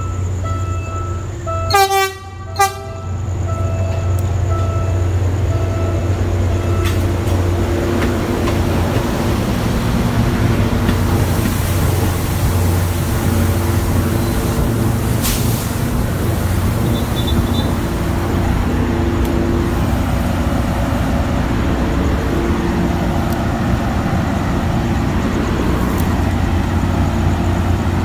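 Diesel train horn giving two short toots about two seconds in, then the steady low drone of the diesel engine and rail noise as the train approaches.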